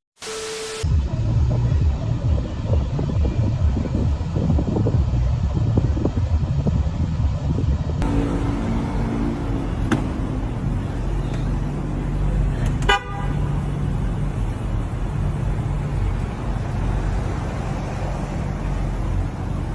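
A vehicle engine running with a low rumble. Horn toots come in partway through, and there is one sharp bang about two-thirds of the way in.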